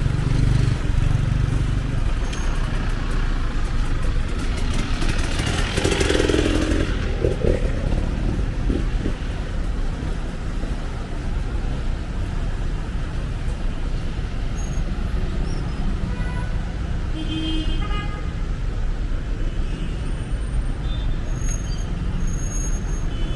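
City street traffic: a steady rumble of cars and motorcycles going by, with one vehicle passing louder about five to seven seconds in.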